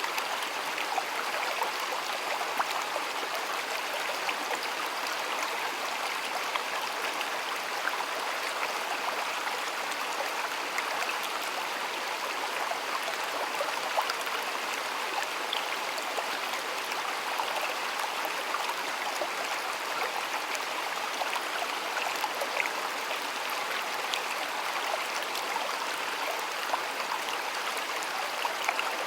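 Water of a small stream flowing steadily over stones, with a continuous rush and many small splashes and gurgles.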